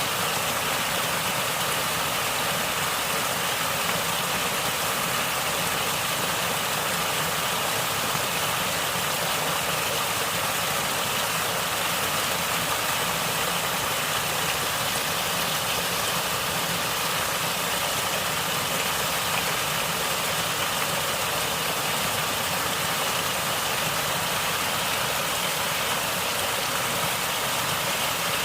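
Natural water flowing and gurgling, a steady, even rush that does not let up.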